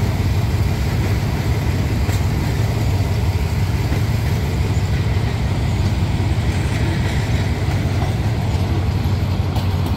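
Diesel-hauled passenger train rolling past, a steady low engine drone under the rumble of the coaches.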